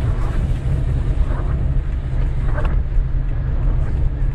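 Wind buffeting the microphone outdoors, a steady, loud low rumble with a faint hiss above it.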